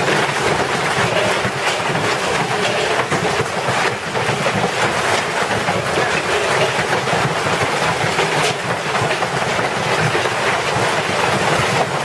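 Storm noise: a loud, continuous rush of wind, with a dense crackle of small irregular hits running through it.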